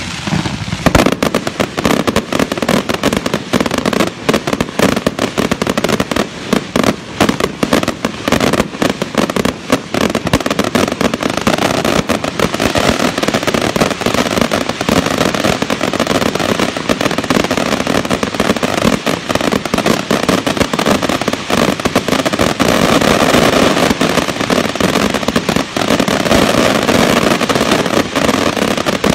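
Daytime fireworks with coloured smoke trails firing in a dense, continuous barrage: rapid launches and bangs, one after another without a break.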